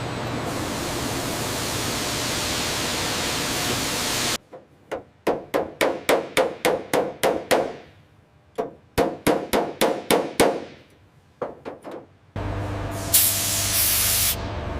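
Hammer striking metal in rapid runs of blows, about three to four a second, with short pauses between the runs. Before and after the hammering, a steady hissing noise over a low hum.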